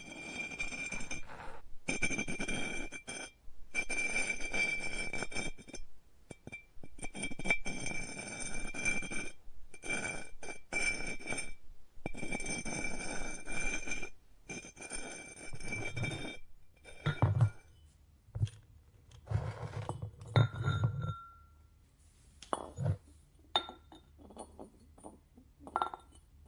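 Pottery studio sounds: a steady whine over wet rubbing noise in repeated stretches for about sixteen seconds, typical of an electric pottery wheel spinning while clay is worked. Then come scattered ceramic clinks and low thuds.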